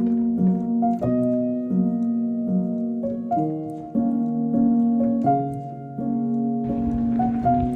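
Gentle piano music, notes struck one after another and left ringing. Near the end a steady hiss of background noise comes in under the music.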